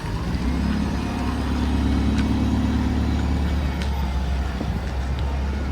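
Diesel bus engine running close by: a steady low hum that comes in abruptly.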